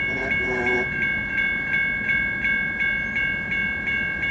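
Railroad grade-crossing bell ringing steadily at about three strokes a second, over the low rumble of a passing freight train.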